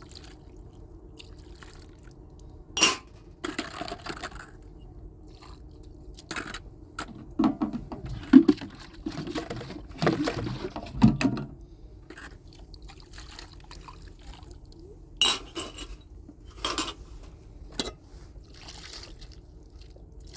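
Water being poured and splashed in a household setting, with sharp clinks and knocks of pots or dishes: a few single knocks about three seconds in and again in the last third, and a busier stretch of splashing and handling in the middle.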